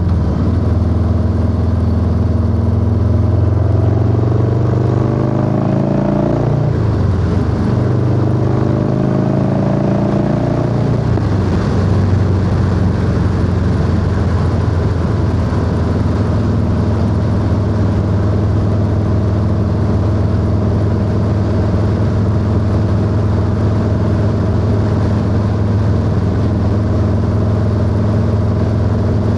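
Harley-Davidson Low Rider S V-twin engine under a riding load, pulling up through the gears. The pitch rises, drops at a shift about six to seven seconds in, and rises again until about eleven seconds in. The engine then holds a steady pitch at cruising speed under wind and road noise.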